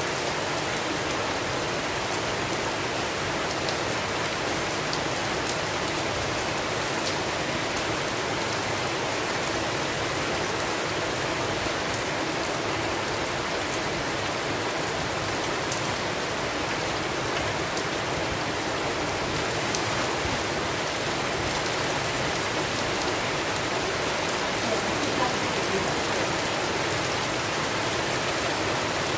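Steady heavy rain falling on a surface, a constant hiss with faint scattered drop ticks.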